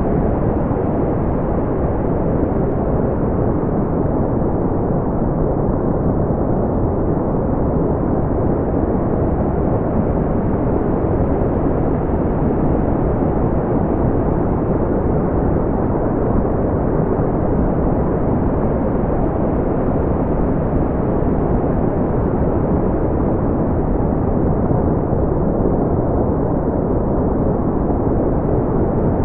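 Steady brown noise: a deep, even hiss, strongest in the lows and thinning toward the treble, with no changes.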